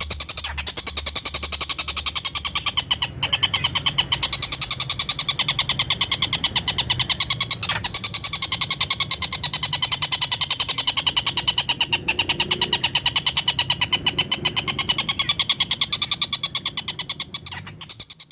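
Collared kingfisher (tengkek buto) chattering 'ngekek': a fast, even run of sharp, high 'kek' notes that goes on without a break and fades out near the end.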